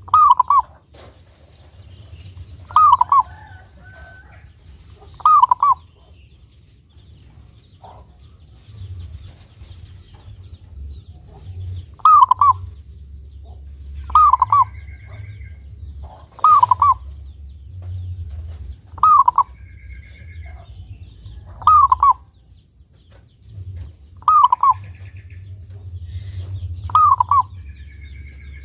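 Zebra dove (perkutut) cooing: a short, bubbling coo phrase repeated about ten times, every two to three seconds, with a longer pause partway through, over a low steady hum.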